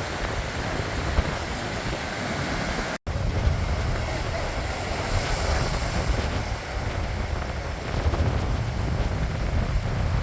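Sea waves breaking and washing ashore, with wind buffeting the microphone in a low rumble. The sound cuts out for an instant about three seconds in, then resumes.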